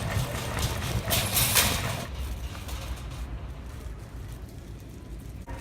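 Vehicle engine and road rumble heard from inside the cabin, with a brief rustling noise about a second in; the rumble drops away after about two seconds, leaving a quieter hum.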